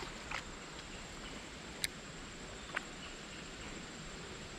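Creek water running steadily, with two short sharp clicks, about two and three seconds in.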